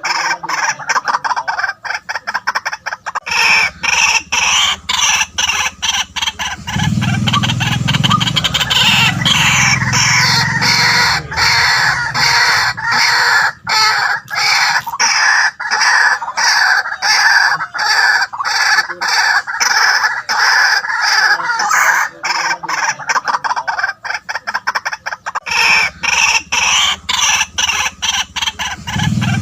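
White-breasted waterhen calling: a continuous, rapid run of repeated loud notes. Deeper notes join in about seven seconds in and again near the end.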